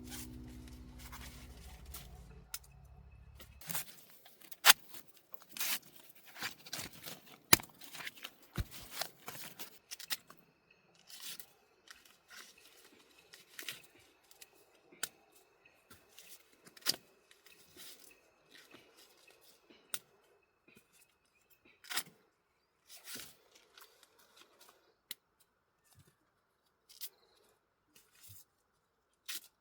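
Dry corn husks being torn and stripped by hand: irregular tearing and crackling, with sharp snaps now and then.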